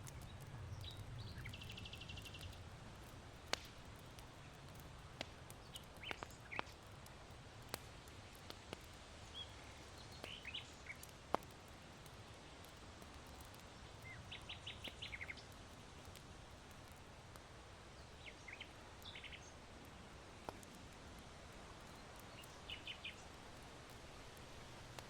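Faint ambience of charcoal in an irori hearth crackling, with sharp single pops every second or two. Small birds give short, rapid chirping trills now and then. Underneath runs a low steady rumble of wind.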